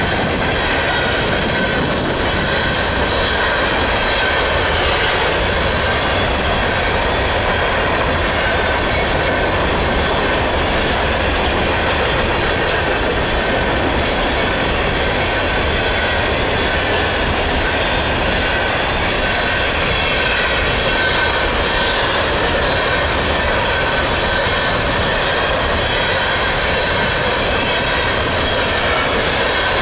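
Empty coal gondola cars of a freight train rolling past close by: a steady, loud rumble and rattle of steel wheels on rail, with a high, steady squeal over it.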